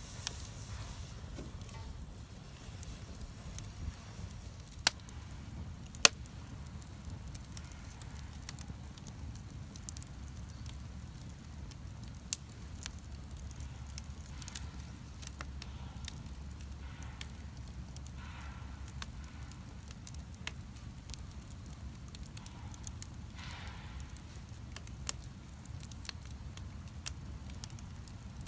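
Wood bonfire crackling, with scattered sharp pops, the loudest about six seconds in.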